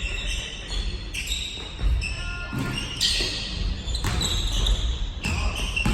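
Basketball game play in a gym: the ball bouncing on the court, with short high sneaker squeaks on the floor coming and going.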